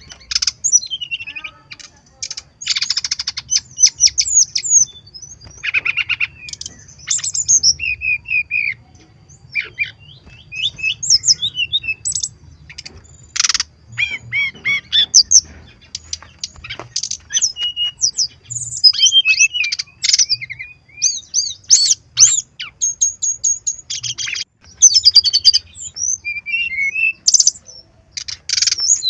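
Brown-chested jungle flycatcher singing a long, varied, high-pitched song of rapid chirps, trills and whistled notes, broken into phrases with short pauses.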